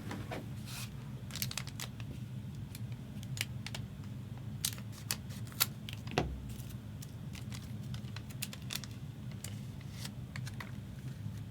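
Trading cards being flipped through by hand: irregular light clicks and slides of card stock, over a steady low hum.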